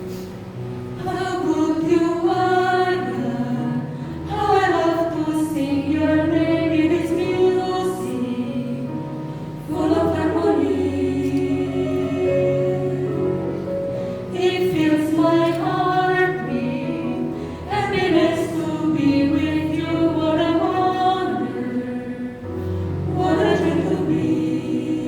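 A group of women singing a song together in phrases of a few seconds each, with short breaths between phrases.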